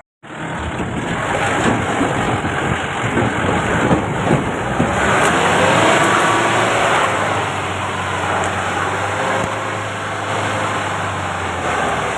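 Mahindra Bolero SUV engine running under load on a rough hill track, its pitch rising and falling around the middle as it is revved.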